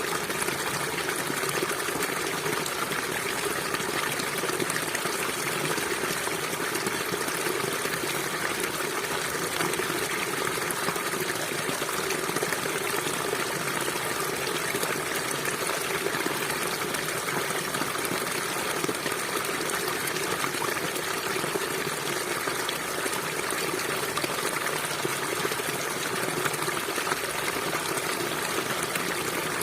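River water flowing and gushing steadily, with no change throughout.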